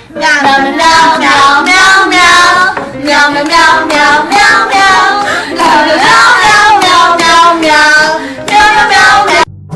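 A high singing voice, like a child's, sung continuously with sliding pitch and cutting off suddenly near the end.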